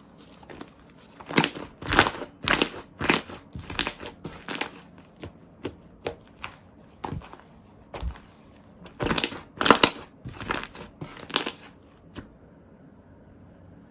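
Slime being pressed and squished by hand, giving a run of short, sharp squishing and crackling sounds about two a second, which stops about twelve seconds in.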